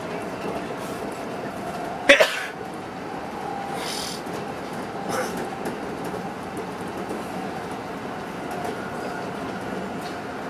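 Electric train running at speed, heard from inside the front car: a steady running rumble with a faint hum. About two seconds in there is a sharp clank, the loudest sound, and a short hiss follows a couple of seconds later.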